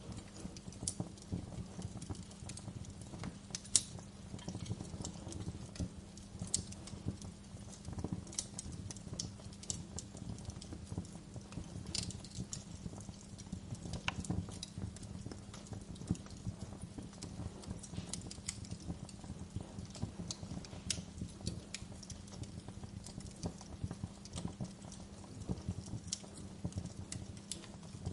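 Wood fire crackling: irregular sharp pops and snaps, the loudest about four seconds in, over a steady low rumble.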